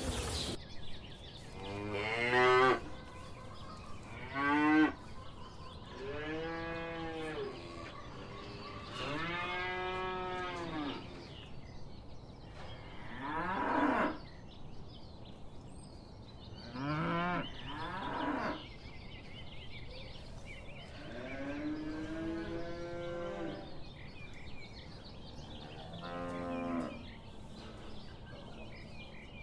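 Cattle mooing: a series of about eight separate moos, each one to two seconds long and several seconds apart, with the pitch rising and then falling within each call.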